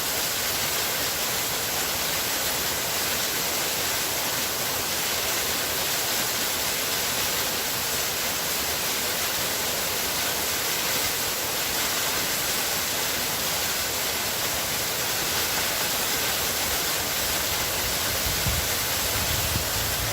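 Waterfall: a steady, even rush of falling, splashing water, with a little more low rumble in the last couple of seconds.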